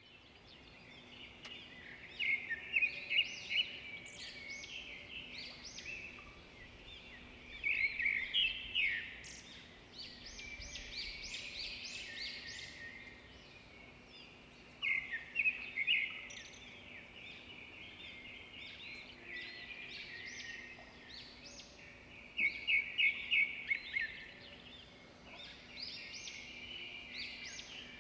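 Birdsong: runs of rapid high chirps that come back about every six to seven seconds, with quieter chirping in between, over a faint steady hum.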